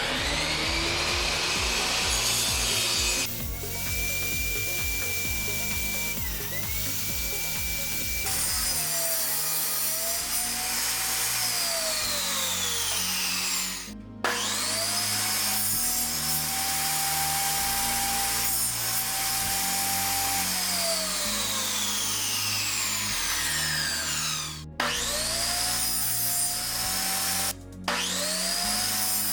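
Electric power tool working wood: its motor whine spins up, holds steady with brief dips under load, and winds down in long falling glides, several times over. Background music runs underneath.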